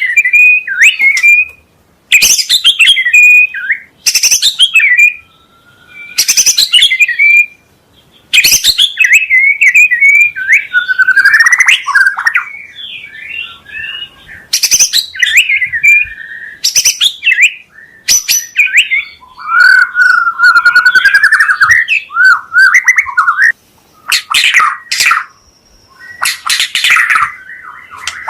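White-rumped shama (murai batu) singing loudly: fast, varied whistled phrases broken every couple of seconds by harsh, rasping rattle calls.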